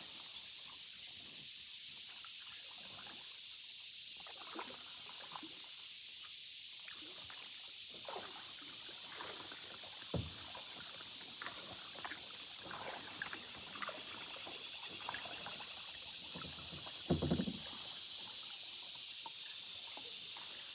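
Canoe being paddled: a steady hiss of moving water with small splashes and drips from the paddle, and a few knocks, one about halfway through and a short cluster of them near the end.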